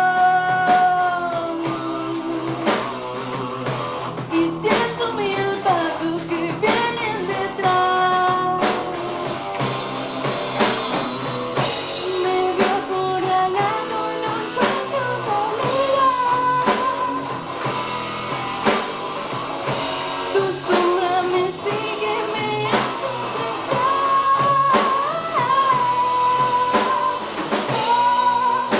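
A band playing a song live, with a lead vocal sung over the full band.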